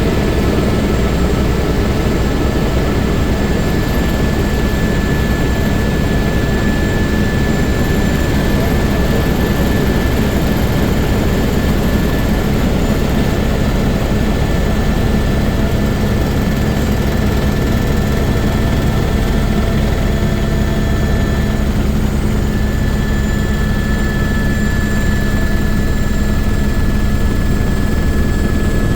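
Helicopter engine and rotor running steadily: a dense low rumble with a thin, steady high whine over it.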